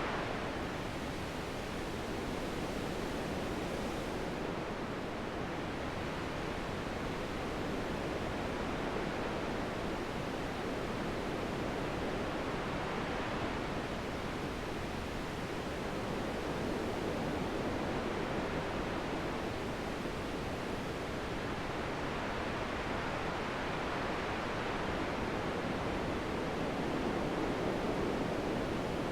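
Steady wind: a dense rushing hiss that swells and eases slowly, a little stronger near the end.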